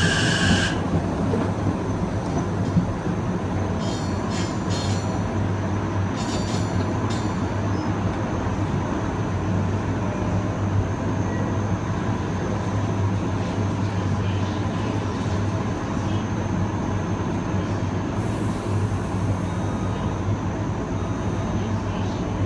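Kawasaki M9 electric multiple unit heard from aboard: the IGBT-VVVF traction inverter's whine falls in pitch and cuts off within the first second. The train then runs on with steady wheel and rolling noise over a low hum, with a few brief high hissing bursts about four and six seconds in.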